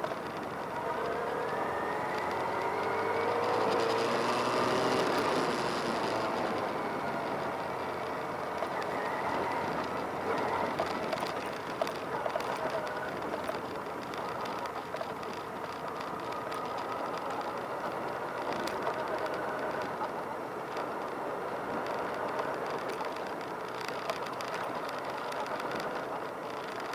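Motorcycle engines running. One engine's pitch rises and falls over the first several seconds, then the sound settles into a steadier engine noise.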